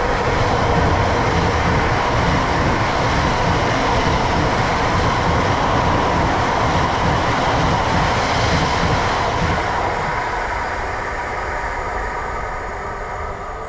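A non-stopping train passing through the station at speed: a loud, steady rush of wheels on rail with a hum, fading away over the last few seconds.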